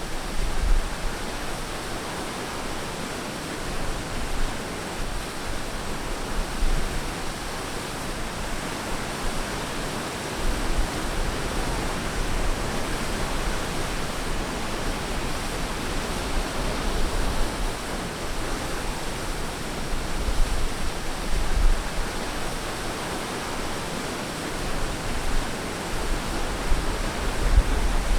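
Ocean surf washing on a beach: a steady, rushing wash with a low rumble that swells every several seconds.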